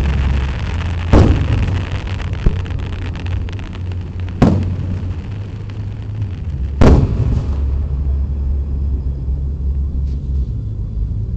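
Aerial firework shells bursting overhead: loud booms about one, four and a half and seven seconds in, each trailing off in an echo, with a smaller pop between the first two. A steady low rumble runs underneath.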